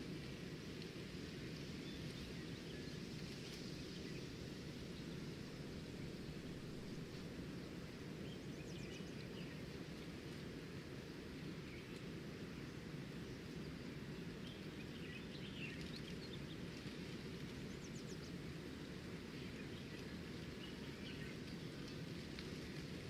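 Nature ambience: a steady low rushing noise, with short high bird chirps now and then, clustered about a third of the way in and again past the middle.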